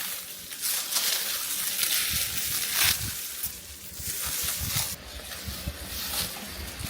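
Rice stalks rustling and crunching in irregular bursts as they are handled during the harvest.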